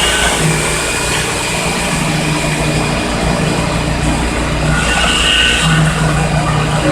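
Heavy machinery engine running steadily with a constant low drone.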